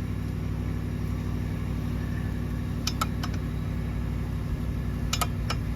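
A steady low machine hum, with a few light clicks about halfway through and again near the end.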